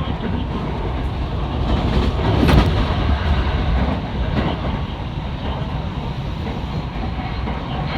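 Train running along the track: a steady low rumble of wheels on rails, with a louder clatter about two and a half seconds in.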